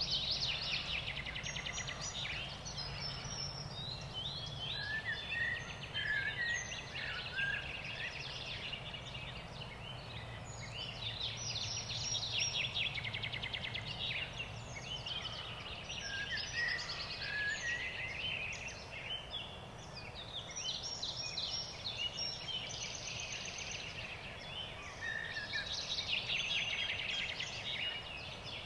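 Several songbirds singing at once, a dense, continuous chorus of chirps, rapid trills and warbled phrases, over a faint low steady hum.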